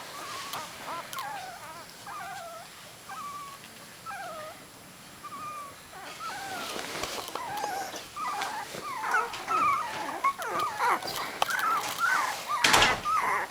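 Litter of three-week-old miniature dachshund puppies whimpering and squawking in many short, high, wavering cries, more and more often in the second half: they are crying for their mother. A brief noise near the end.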